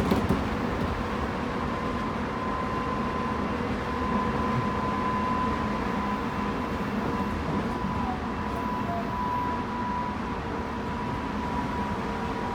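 Tobu 9050 series electric train running, heard inside the car above its Toyo two-level GTO-VVVF inverter: a steady rumble of wheels on the rails with a steady high whine over it.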